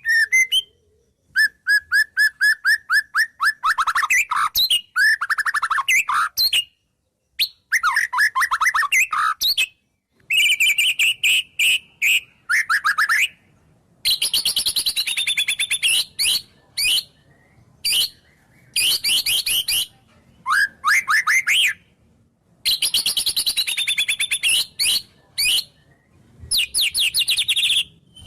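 White-rumped shama (murai batu) singing a long, varied song packed with mimicked wild-bird phrases. It comes as one burst after another of rapid repeated notes and fast trills, with short pauses between them.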